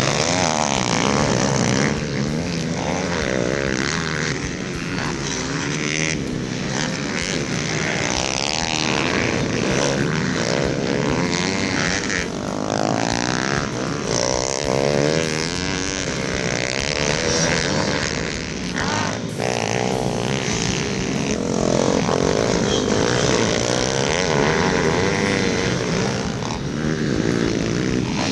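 Several pit bike engines revving hard and changing pitch over and over as the bikes race, their sounds overlapping.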